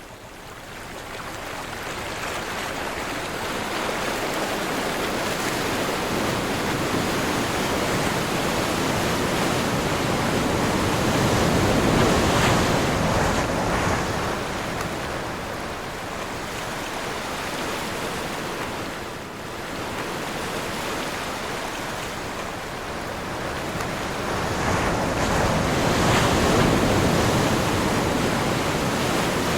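Ocean surf with wind: waves breaking and washing in as a continuous rushing noise that swells twice, about halfway through and again near the end.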